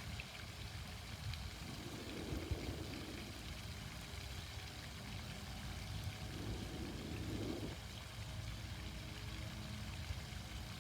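Steady splash and rush of an outdoor water fountain, with a low rumble underneath.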